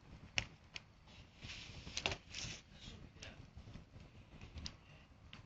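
Campfire crackling: irregular sharp pops and snaps from burning wood, with a brief soft hiss about two seconds in.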